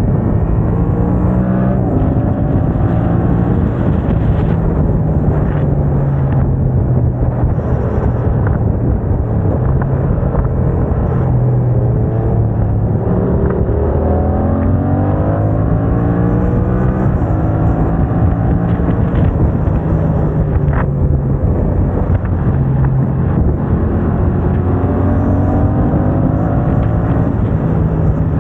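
Yamaha MT-07's 689 cc parallel-twin engine running through an aftermarket MIVV exhaust under way. The revs hold steady in stretches and shift in steps, with a climbing rise in pitch around the middle and another near the end.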